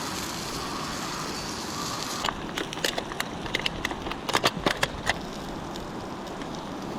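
Wood campfire crackling: an even hiss, with a run of sharp irregular pops and snaps in the middle.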